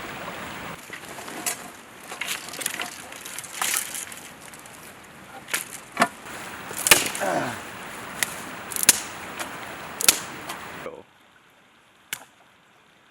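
Dry wood cracking and snapping: a dozen or so sharp, irregular cracks of sticks being broken, typical of gathering kindling for a campfire, stopping abruptly about eleven seconds in, with one more crack shortly after.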